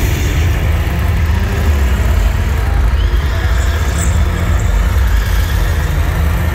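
Stunt car engine running loud as the car drives around the arena, a steady low rumble.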